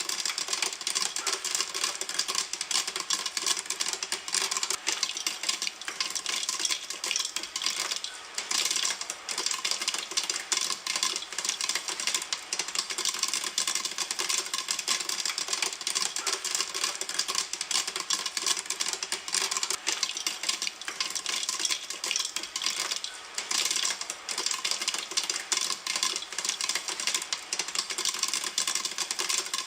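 Popcorn kernels popping in a pan: a dense, continuous crackle of rapid pops.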